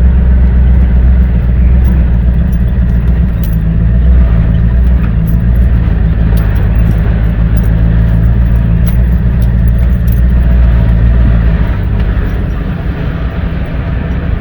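Engine of a small riding vehicle running steadily at an even, low speed on a woodland trail, easing off slightly near the end.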